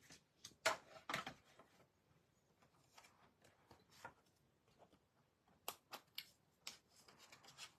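Scattered light clicks and taps of paper and thin metal cutting dies being handled and set in place on a table, with a few sharper taps about a second in and again near the end.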